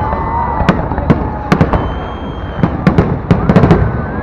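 Fireworks display: about a dozen sharp bangs from bursting shells at irregular intervals, several in quick clusters, echoing over a steady rumble.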